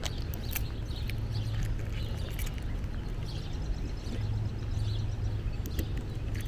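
Footsteps of a person walking on a forest trail, a few irregular steps a second, with small bird chirps and a steady low hum underneath.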